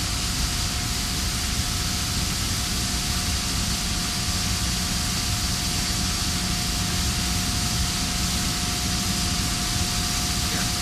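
Steady rushing noise with a constant high-pitched whine running unchanged throughout, from running industrial plant equipment such as fans or pumps.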